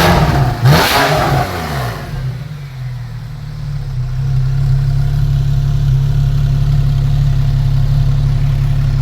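Porsche 991 Carrera S's 3.8-litre flat-six through a Soul Performance sport exhaust with its valves open. It is blipped sharply right at the start and again just under a second in, the revs fall away, and it settles to a steady idle.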